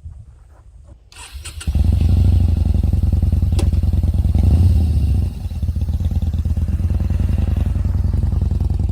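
Yamaha SCR950 V-twin motorcycle engine starting up, catching a little under two seconds in. It then runs with a brief rise in revs about halfway through and settles back to a steady idle.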